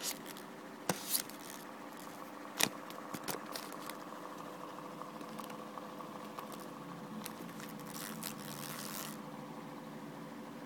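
A steady machine-like hum with several clicks and scrapes in the first few seconds, then a short hiss near the end.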